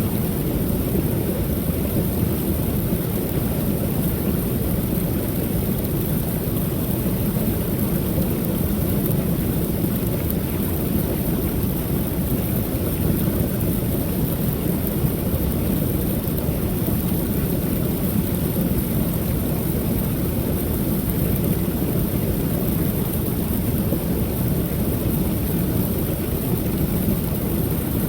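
Creek waterfall pouring steadily: a constant low rush of falling water, with an even high hiss above it.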